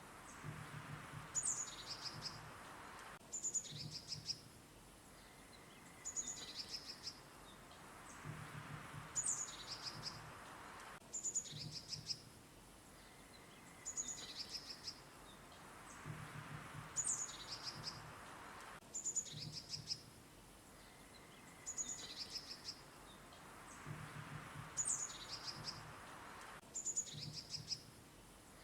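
Songbirds chirping in short, high calls over a soft background hiss. The same sequence of calls repeats about every eight seconds.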